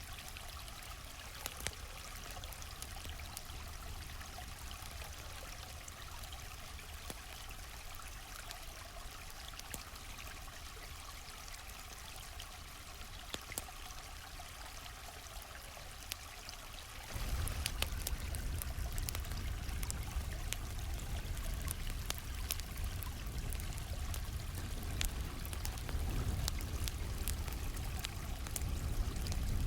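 A steady rush of a flowing stream, with scattered sharp crackles and pops from a campfire. About two-thirds of the way through, the water gets louder and fuller.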